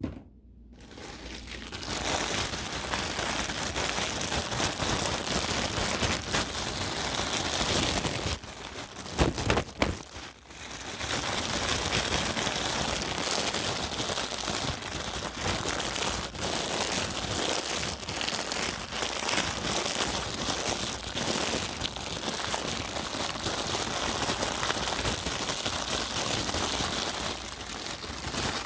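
Brush bristles rubbed fast and hard against the microphone, a dense scratchy rustling. It builds up over the first two seconds and breaks off briefly about nine seconds in, with a few quick separate strokes before the rubbing resumes.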